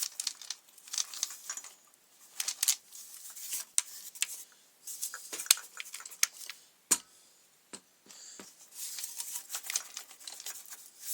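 Irregular small clicks, scrapes and rustles of hands working on a McCulloch grass trimmer's fuel tank and fuel lines, after the old return fuel line has snapped.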